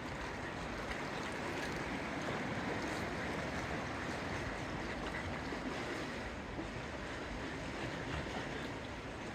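Steady outdoor wash of water with wind noise on the microphone, without distinct events.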